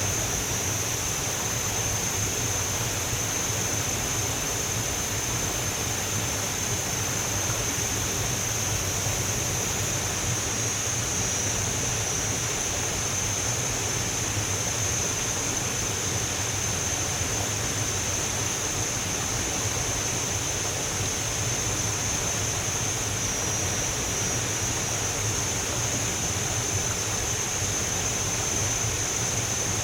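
Waterfall water rushing steadily, with a continuous high-pitched whine over it.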